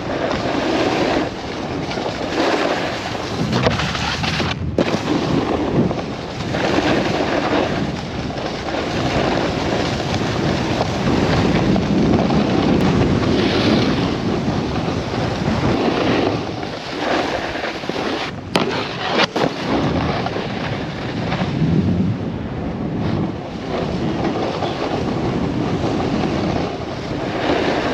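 Wind rushing over a helmet-mounted action camera's microphone while snowboarding, with the board sliding and scraping over hard snow. The noise swells and eases every second or two, with a couple of brief dropouts.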